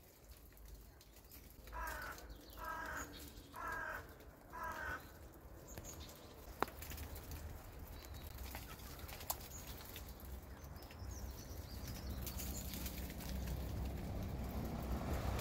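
A bird calling four times in quick succession, each call about half a second long, a couple of seconds in; a low outdoor rumble builds toward the end.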